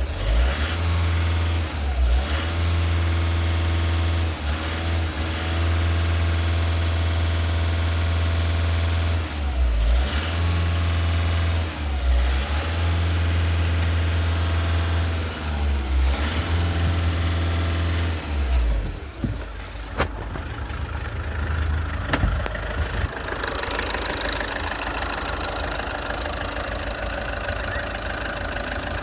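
Engine being test-run: it runs steadily with a strong low hum, its speed dipping and swinging briefly every few seconds. After about 19 seconds the low hum falls away and a rougher, hissier running sound carries on.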